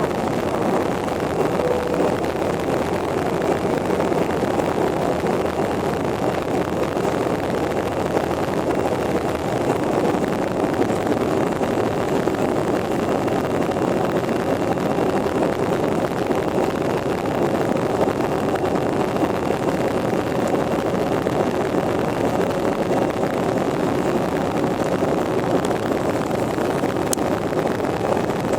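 Airbus A350-900 jet noise, its Rolls-Royce Trent XWB engines and airflow making a steady, even roar that neither rises nor falls.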